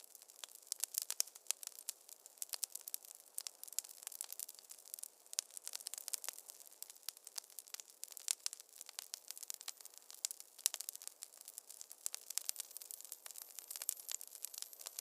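Wood fire crackling in a fireplace: dense, irregular pops and snaps over a soft, steady hiss.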